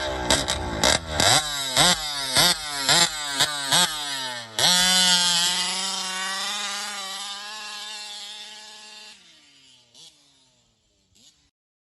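Engine revved in quick repeated blips, about two a second, each rising in pitch; then, about four and a half seconds in, it is held at one steady high note that slowly fades out.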